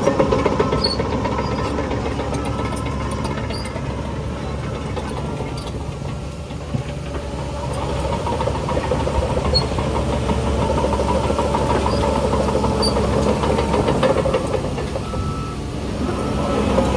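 Heavy diesel earthmoving machinery running, a continuous engine drone with a rattling clatter. The engine eases off about six seconds in and works harder again from about eight seconds.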